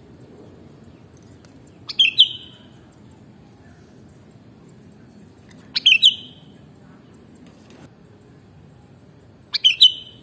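Sooty-headed bulbul (kutilang) calling: three short, quick bursts of notes, about four seconds apart.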